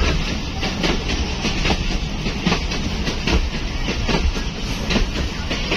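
Passenger train running along the track, heard from inside a coach: a steady low rumble with the irregular clickety-clack of the wheels knocking over rail joints several times a second.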